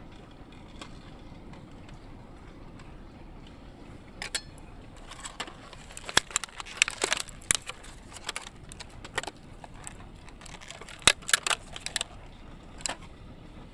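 Cookware and utensils clinking and tapping at a camp stove: irregular sharp metal and crockery taps, starting about four seconds in, thickest in the middle and again near the end.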